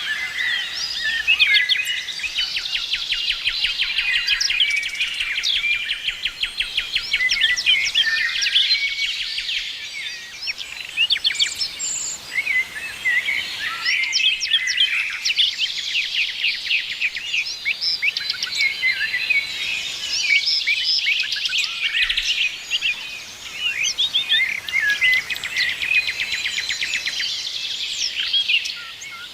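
Many songbirds chirping and singing at once: a dense, overlapping chorus of high chirps, trills and rapid repeated notes, easing briefly a few times.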